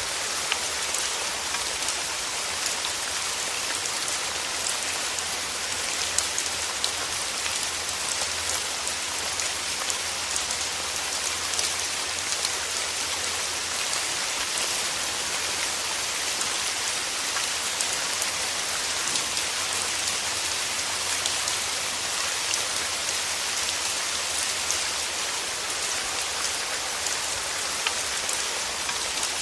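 Steady rain falling: an even hiss of rain with dense, scattered drop patter, unchanging throughout.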